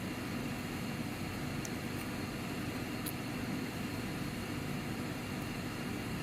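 Steady mechanical hum and whir of laboratory equipment running, with a few faint high ticks.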